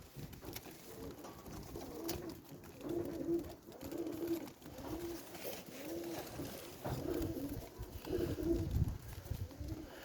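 Pigeons cooing: short, low coos repeating about once a second, starting about three seconds in.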